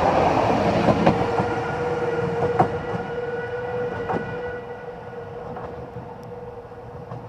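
Narrow-gauge train carriages rolling away along the track, the wheels clicking over rail joints about every second and a half. A steady tone is held from about a second in, and the whole sound fades as the train draws off.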